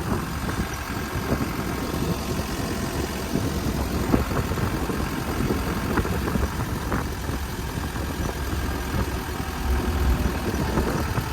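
Truck running along the road, heard from its open cargo bed: a steady low engine and road rumble with a few scattered knocks and rattles.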